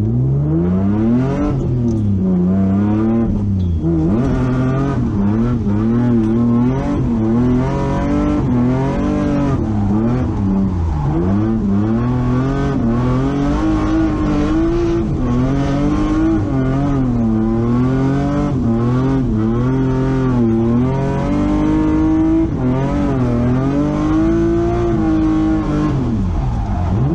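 Car engine revving hard, its pitch rising and falling every second or two as the car is driven aggressively.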